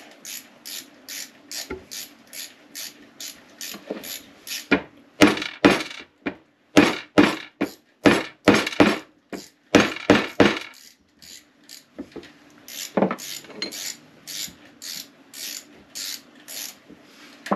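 A plastic-faced hammer knocking a new fork oil seal down into a motorcycle fork leg, with the old seal laid on top as a driver: a run of sharp knocks in the middle, a few more later. A steady, even ticking of about three clicks a second runs underneath.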